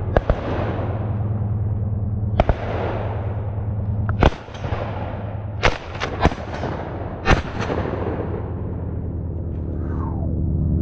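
Shotguns firing, about ten shots from several guns. Some are close and sharp, others fainter, with a quick cluster of volleys between about four and seven and a half seconds in, each shot trailing off in echo. A steady low hum runs underneath.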